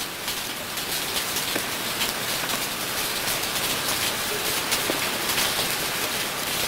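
Steady rain falling, with many small drop ticks through a continuous hiss.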